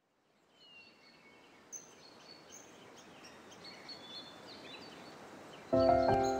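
Birds chirping and calling over a faint outdoor hiss that fades in. Near the end, music comes in much louder with held notes.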